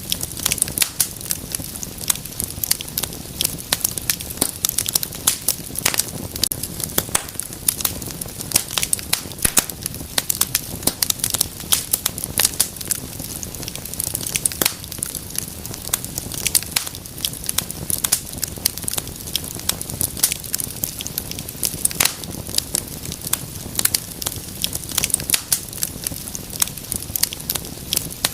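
Wood fire burning in a fireplace, with dense, irregular sharp crackles and pops over a low steady rumble of flame.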